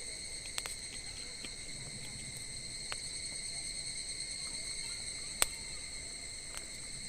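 Wood campfire crackling with a few sharp pops, the loudest about five seconds in, over a steady high-pitched chorus of crickets.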